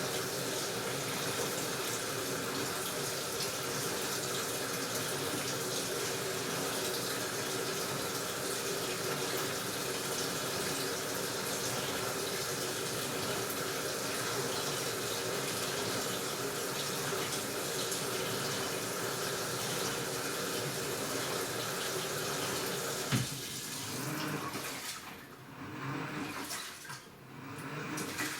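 Washing machine filling its drum with water: a steady rush of incoming water with a faint hum. Near the end a sharp click comes, the steady flow stops, and softer, uneven swishing follows.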